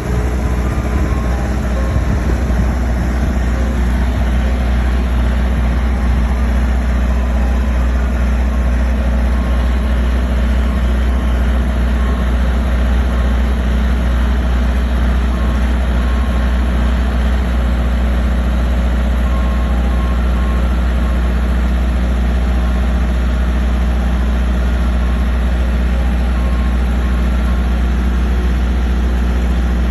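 Soft-serve ice cream truck's engine idling steadily, a deep even hum.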